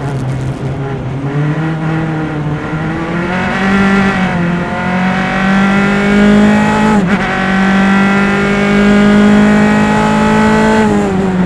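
Onboard sound of a single-seater race car's engine under load, its pitch climbing through much of the stretch, with a brief sharp dip about seven seconds in and a fall in pitch near the end.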